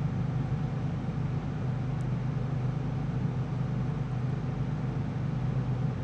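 Shark corded upright vacuum cleaner running steadily: an even motor hum with the hiss of rushing air.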